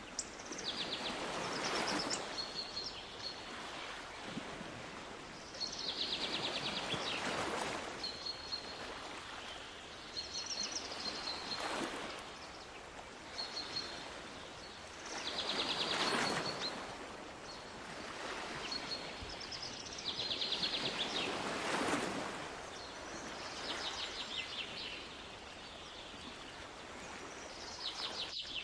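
Waves washing in and drawing back, a swell about every four to five seconds, with a small bird repeating short high trilling calls between them.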